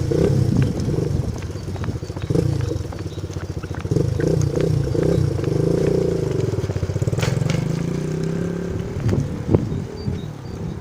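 Bicycle rolling along a bumpy path, a steady rattling rumble that fades near the end.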